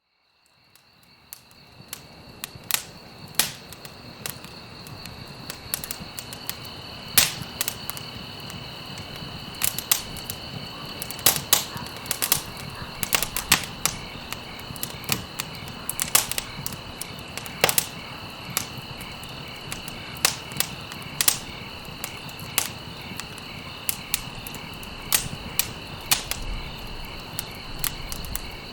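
Campfire crackling, with sharp irregular pops and snaps over a steady hiss of burning, fading in over the first couple of seconds. Crickets chirp steadily behind it in two high, even tones.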